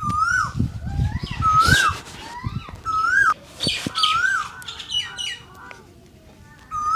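Short rubbing strokes of a shoe-shine brush on a leather shoe, over a bird chirping the same rising-then-falling call about once a second.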